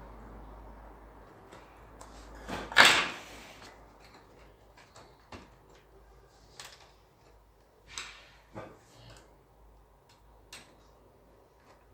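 Objects being handled on a workbench: one loud knock with a short scrape about three seconds in, then a few scattered light clicks and taps.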